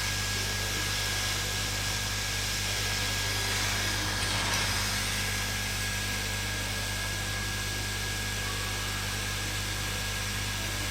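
Hot-air rework station blowing steadily: a constant rushing hiss with a low hum underneath.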